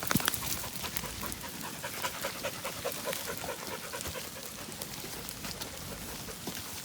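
A kelpie working dog panting steadily.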